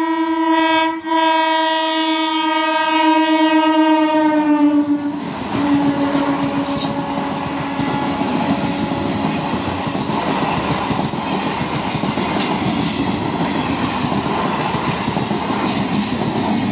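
Single-windshield EMU local train sounding its horn for about five seconds, with a short break about a second in and the pitch dropping as it passes, then the coaches rumbling and clattering past on the rails.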